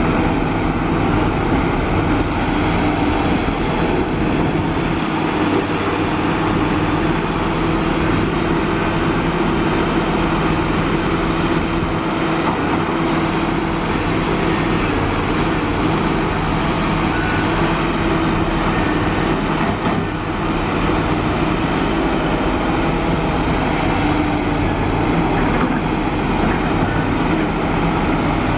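Kobelco SK350 hydraulic excavator's diesel engine running at working speed, a loud, steady drone.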